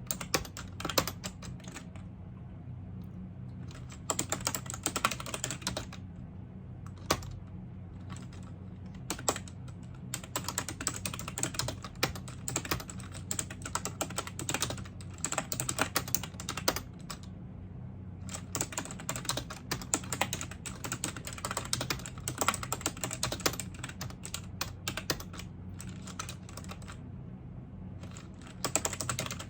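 Typing on a computer keyboard: fast runs of key clicks broken by short pauses of a second or two, over a steady low hum.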